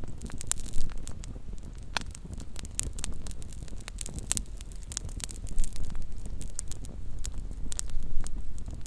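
Small campfire crackling: frequent, irregular sharp pops and snaps of burning wood over a low, steady rumble.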